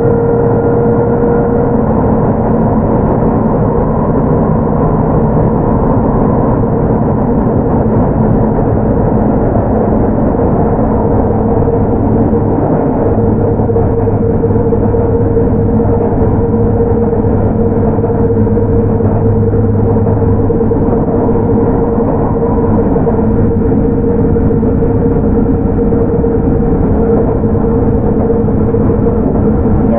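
Sotetsu 8000-series electric train with Hitachi GTO-VVVF control running at a steady speed, heard from inside the car: continuous wheel and rail noise with a steady humming tone. A deeper drone joins in partway through and fades again.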